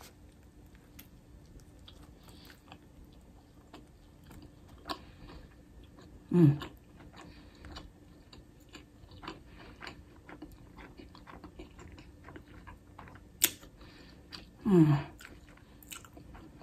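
A woman chewing a mouthful of crispy fried chicken sandwich, close to the microphone, with small crackles and wet mouth clicks throughout. Twice she makes a short hummed "mm" that falls in pitch, about six seconds in and again near the end.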